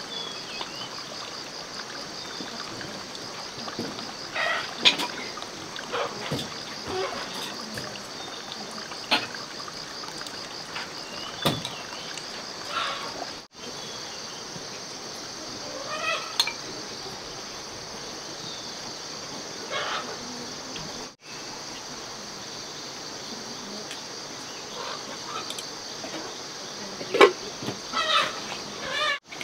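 Insects trilling steadily in the forest, with scattered knocks, rustles and light splashes of hands at work. The sound drops out briefly twice.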